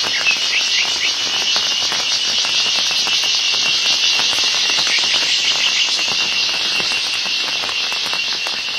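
Loud, steady, high-pitched buzzing chorus of forest insects, such as cicadas or crickets, with no break in it.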